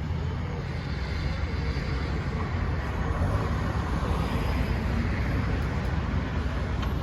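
Steady low rumble of vehicles at a street crossing, with no crossing bell ringing.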